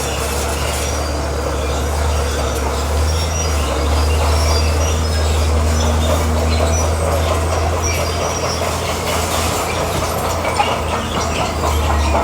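Komatsu crawler bulldozer working: its diesel engine running with a steady low hum while the steel tracks squeal and clank in short bursts as the machine moves over rock.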